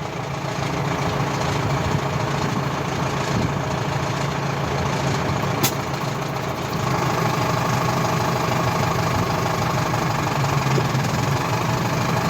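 Tractor engine running at idle with a light knocking note, growing louder about seven seconds in; a single sharp click about halfway through.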